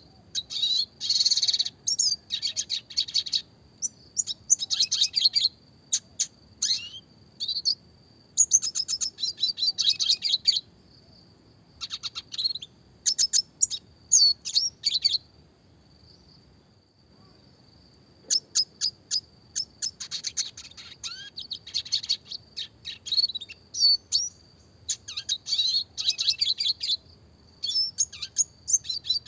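Red siskin singing: phrase after phrase of rapid high chirps, twitters and trills, with a pause of about two seconds past the middle. A faint steady high tone runs underneath.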